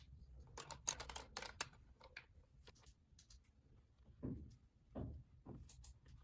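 Faint clicks and light knocks of small objects being handled, with a cluster of quick clicks about a second in and two softer knocks near the end.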